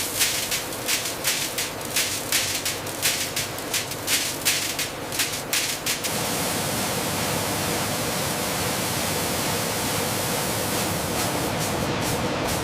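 Factory processing machinery: a rapid, irregular clatter of many small hard knocks over steady mechanical noise, changing suddenly about halfway through to an even, steady machine noise with a faint hum.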